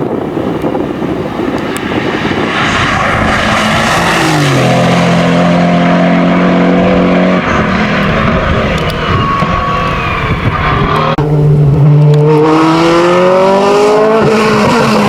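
Hillclimb race car's engine running at full throttle: a rough rush of noise at first, then the engine holding steady revs, a sudden break for a gear change about eleven seconds in, and the engine rising in pitch as it pulls through the next gear before shifting again near the end.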